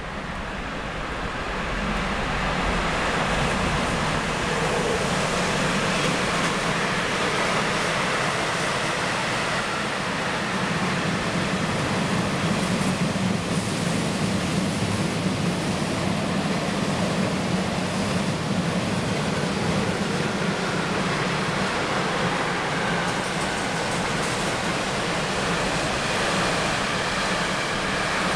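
A train running past on the rails, its wheels making a steady rumble with a constant hiss, unbroken and even in loudness.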